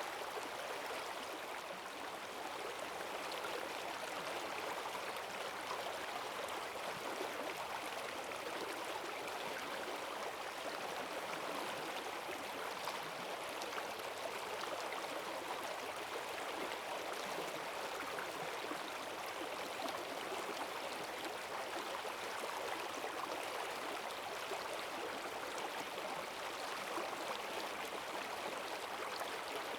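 Forest stream running high after heavy rain: a steady rush of fast water with strong currents.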